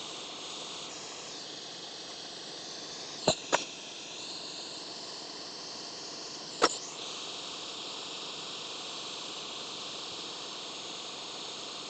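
Hot air rework station blowing with a steady hiss while reflowing the solder under a chip. Three sharp clicks cut through it, two close together about three seconds in and one more near the seven-second mark.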